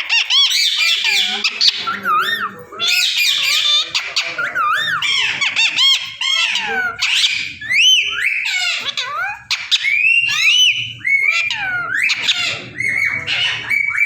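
Pet green parrot calling and chattering without pause: a run of quick squawks and whistle-like calls that swoop up and down in pitch.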